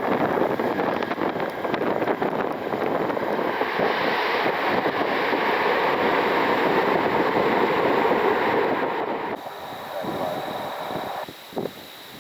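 Jet airliner's engines running as it passes, the noise swelling to a peak and then dropping away sharply near the end, with wind buffeting the microphone.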